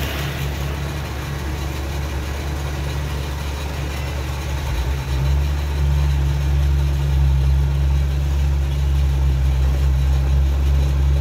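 A truck engine running with a steady low rumble that grows louder about five seconds in, as the vehicle comes closer or takes more throttle.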